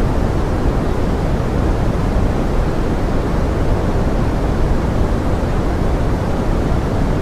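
Pink noise blended with a forest rain recording: a steady, even hiss that is heaviest in the low end and never changes.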